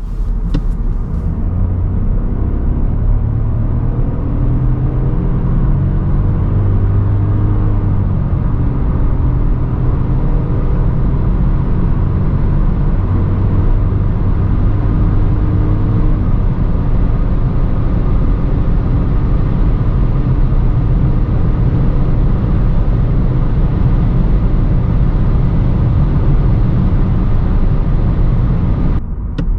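Skoda Fabia's 1.0-litre turbocharged three-cylinder petrol engine pulling hard at highway speed. Its note climbs slowly under a steady, heavy drone of road and wind noise.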